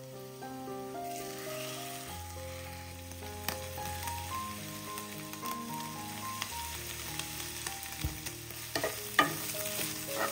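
Hot oil sizzling steadily as food fries in a pan, with a few sharp clicks near the end, over soft background music.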